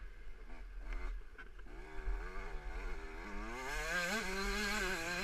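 Small two-stroke motocross bike engine revving, its pitch rising and wavering from about two seconds in as the throttle is worked, over a low wind rumble on the microphone.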